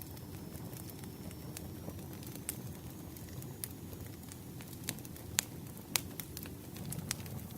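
Campfire burning, a steady low rumble of flames with scattered sharp crackles and pops, two louder pops a little after the middle.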